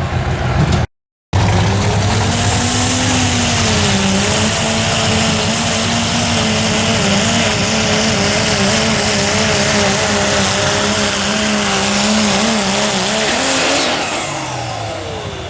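Diesel pulling truck at full throttle, its engine held at high revs with a wavering pitch as it drags the sled, then falling away as it lets off near the end. The sound cuts out completely for a moment about a second in.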